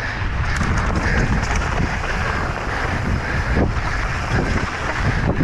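Wind buffeting the microphone in a steady loud rumble, with scattered clicks and knocks over it.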